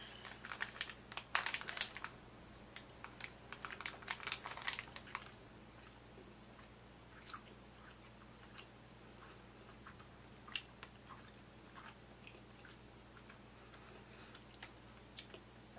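Crinkling and clicking as a box of black licorice pieces is handled and one is taken out, then only faint, scattered ticks of someone chewing a piece of black licorice.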